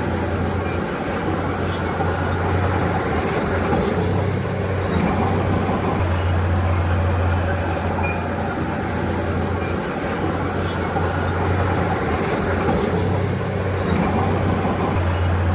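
Heavy diesel earthmoving machinery running steadily, a constant low engine hum that swells and eases slightly every few seconds.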